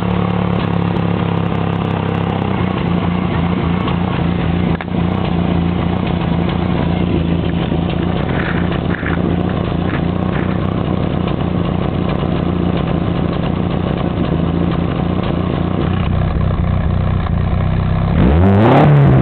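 VW Fox four-cylinder engine idling steadily through a newly fitted aftermarket exhaust with a Cherry Bomb muffler and an exhaust cutout. Near the end the throttle is blipped once, the pitch rising quickly and falling back.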